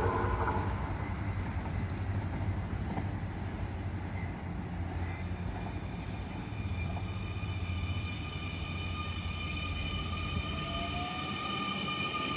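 Electric passenger train's running noise fading away as it moves off past the platform. In the second half, a steady high-pitched whine made of several tones builds up, with a short rising tone near the end.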